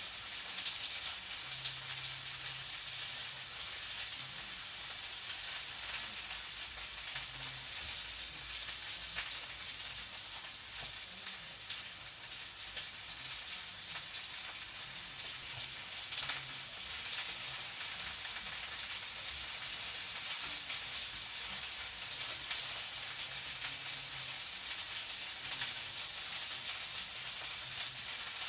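Food frying in a pan: a steady crackling sizzle, with a faint low hum coming and going underneath.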